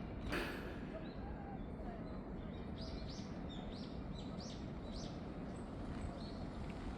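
Small birds chirping: a run of short, high chirps, thickest between about one and five seconds in, over a steady low rumble. A single sharp click just after the start.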